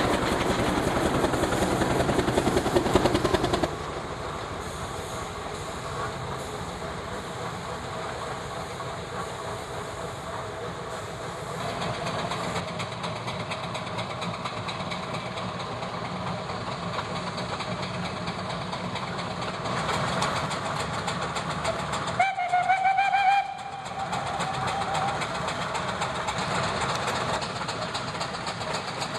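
Steam traction engines running on the road, mechanical noise that is louder for the first few seconds. About three quarters of the way through, a short steam whistle blast, about a second long and rising slightly in pitch.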